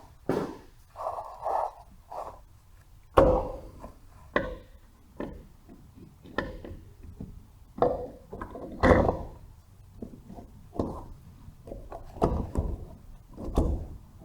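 Irregular knocks, clunks and rubbing as an aircraft starter and its gasket are handled and lined up against the engine's mounting pad. The loudest knocks come about 3 and 9 seconds in.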